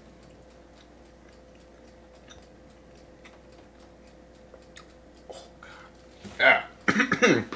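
A man chewing a deep-fried sandwich: quiet, irregular mouth clicks over a steady faint hum. About six seconds in, a loud voice cuts in.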